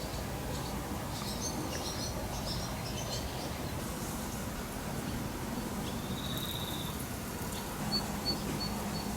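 Outdoor ambience: birds chirping in short high calls for a few seconds, then a brief pulsing insect trill, over a steady low rumble.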